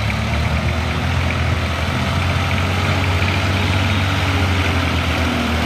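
Tractor diesel engine running steadily at low revs with a deep, even hum.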